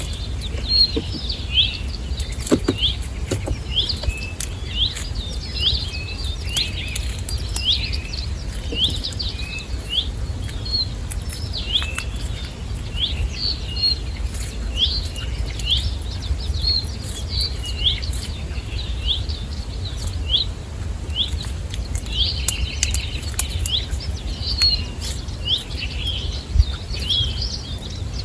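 Small birds chirping continuously: a rapid series of short, high chirps, several a second, with faint clicks scattered through and a steady low rumble underneath.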